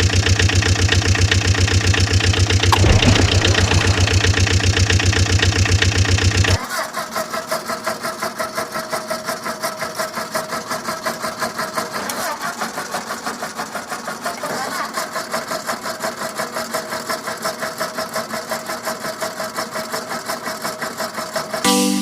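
Cartoon vehicle engine sound effects: a loud, low engine runs with a fast regular pulse, then about six and a half seconds in it switches abruptly to a quieter engine running with a steady rhythmic pulse.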